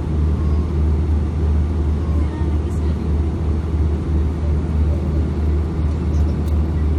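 Steady low drone inside the cabin of an Airbus A340-600 idling on the taxiway: the airliner's engines and air systems running at idle.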